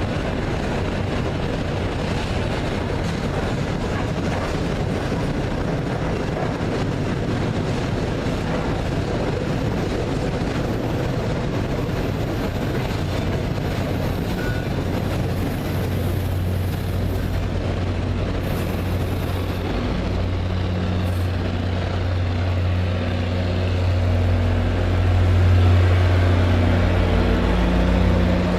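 Train running with a steady rumble, joined about halfway through by a low, even engine hum that grows louder toward the end as a locomotive draws closer.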